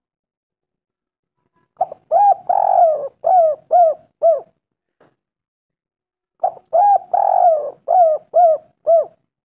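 Spotted dove (tekukur) cooing: two song phrases about four seconds apart. Each phrase is a quick run of short, arched coos with one longer coo in the middle, with silence between the phrases.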